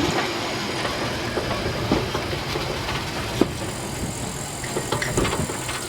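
Train rolling along the track: a steady rumble with a few sharp clicks, about one every second or two.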